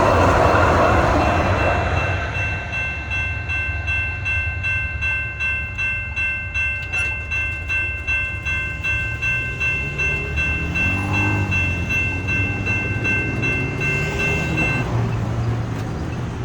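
Railroad crossing signal bells ringing about twice a second while a light rail train rumbles past and fades away in the first couple of seconds. The bells stop about fifteen seconds in as the crossing clears, and road vehicles are heard pulling away.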